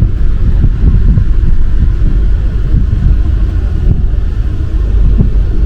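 MP 05 rubber-tyred metro train running along the line: a loud, steady low rumble.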